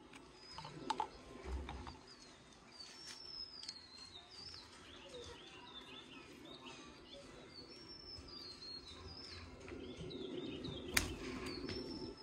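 Small birds chirping and twittering faintly and repeatedly, over a soft outdoor background hiss, with a few light clicks and one sharp click near the end.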